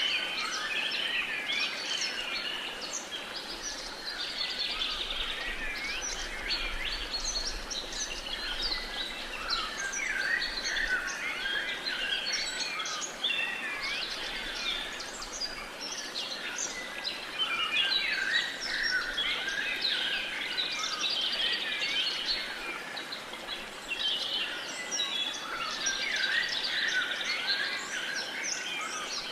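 Many birds chirping and singing at once, a dense steady chorus of overlapping short calls and whistles over a faint background hiss.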